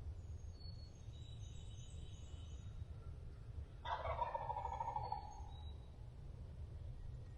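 A wild turkey gobbler gobbles once, about four seconds in: a rattling call lasting about a second and a half. Faint high bird chirps come before it, over a steady low rumble.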